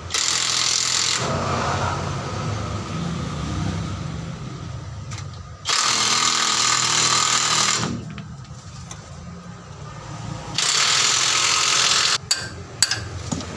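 Impact wrench undoing the bolts of a Hino Ranger truck's differential, hammering in three bursts: about a second at the start, about two seconds in the middle, and about a second and a half near the end. A few sharp metallic clicks follow.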